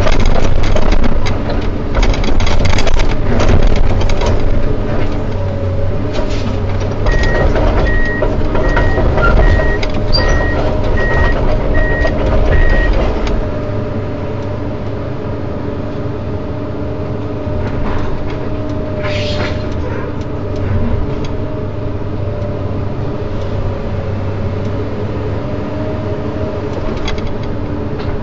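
Komatsu PC210 hydraulic excavator's diesel engine working hard, with knocks and clatter from the work, and a run of about ten evenly spaced warning beeps in the middle. About halfway through the engine drops to quieter, steadier running.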